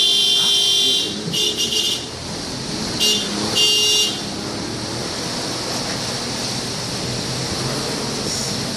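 Vehicle horns honking: a long honk ending about a second in, then three more shorter toots within the next three seconds. Under and after them runs a steady outdoor noise of wind and street traffic.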